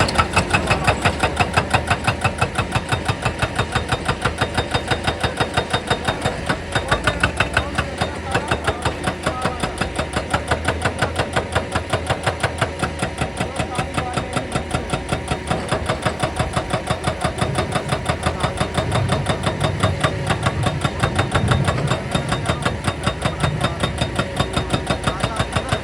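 Excavator-mounted hydraulic breaker hammering rock in a rapid, even stream of blows, several a second, over the machine's running engine.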